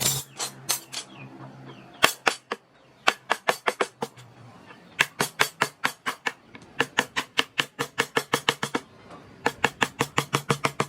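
Mallet striking a wood-carving chisel: sharp, fast taps, about four to six a second, in runs broken by short pauses.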